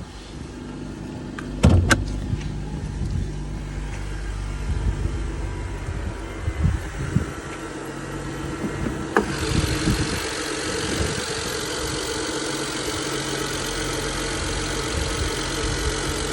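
BMW E61 engine idling steadily just after a cold start. Two sharp knocks come about two seconds in, and a click about nine seconds in, after which a steady hiss joins the idle.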